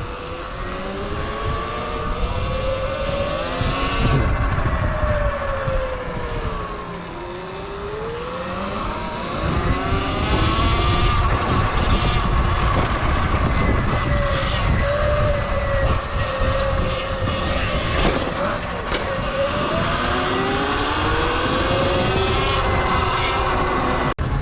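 Electric motor whine of a Sur Ron electric dirt bike, rising and falling in pitch as the throttle is opened and eased off, over a steady low rumble of riding. The whine climbs over the first few seconds, drops, climbs again and holds fairly steady through the middle, then rises again near the end.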